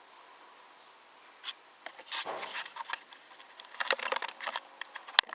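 Light clicks, taps and rubbing from a 1:18 scale diecast model car being handled, with two sharp clicks near the end.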